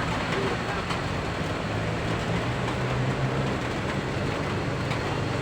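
Heavy truck engine running low and steady as it climbs, over the steady hiss of heavy rain and wet road noise.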